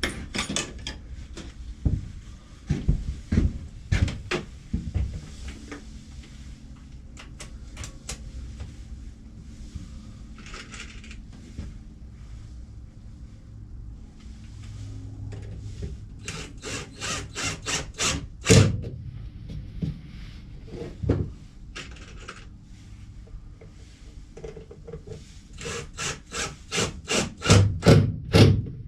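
Hand work on cedar picket wood: two runs of quick, even back-and-forth strokes, a little past halfway and again near the end, typical of hand sawing or sanding. Scattered knocks of wood being handled fall between them.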